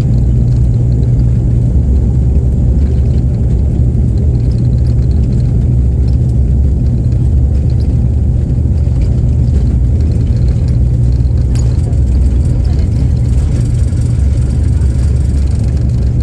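ATR 72 twin turboprop engines and propellers at takeoff power, heard inside the cabin. It is a loud, steady, deep propeller drone over a dense rumble, with no change in pitch.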